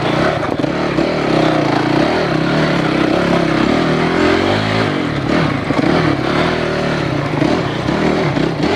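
Enduro dirt bike engine ridden through a tight, twisty trail section, its revs rising and falling over and over as the throttle is worked, with the clatter of the bike over rough ground.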